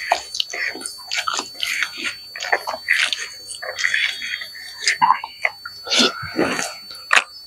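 A man chewing and biting chicken liver with his mouth close to the microphone: wet chewing, lip smacks and mouth clicks in an irregular run. There is a louder bite about six seconds in as he takes a big mouthful.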